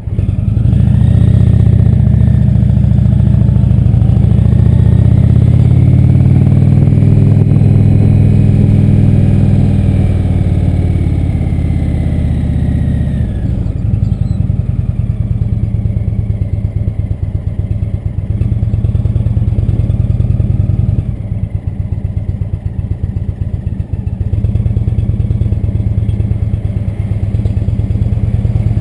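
Indian Chief Vintage motorcycle's V-twin engine running as the bike pulls away and rides off. The engine note climbs and shifts through the first half, then drops at about thirteen seconds to a lower, steadier note.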